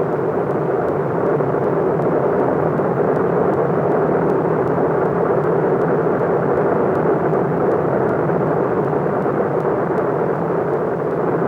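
Kilauea's erupting lava fountain, a loud, steady rushing roar with no breaks.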